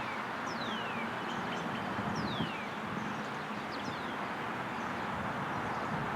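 A bird calling with short whistled notes that slide downward, repeated about every second, over a steady background rush of noise.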